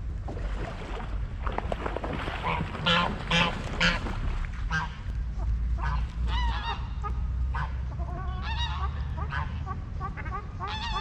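Waterfowl calling at the lakeside: a few loud calls about three to four seconds in, then many shorter calls in quick succession through the second half, over a steady low rumble.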